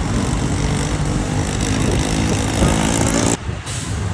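Heavy truck engine running with road noise, its pitch shifting a little past the middle. The sound drops out abruptly for a moment about three and a half seconds in.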